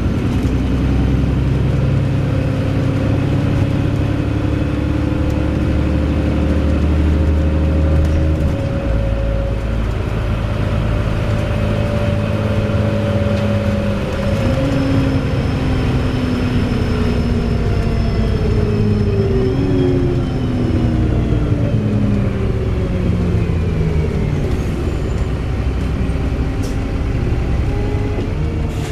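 Wright Pulsar Gemini 2 double-decker bus engine and drivetrain heard from on board. The engine pitch climbs slowly under power, then falls away as the bus slows, jumping up twice, near the middle and about two thirds through, as the automatic gearbox changes down. A thin high whine runs through the middle of the slowdown.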